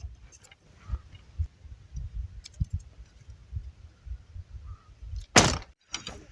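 Wind buffeting the microphone in uneven low gusts, with scattered small clicks and rustles. One loud, sharp noise comes about five seconds in.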